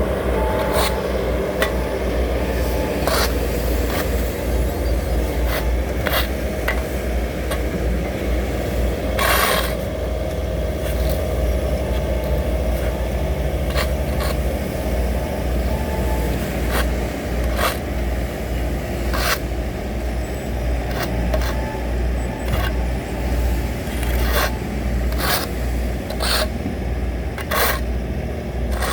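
Heavy diesel road-construction machinery running steadily with a deep rumble, with irregular short, sharp scrapes and clanks over it.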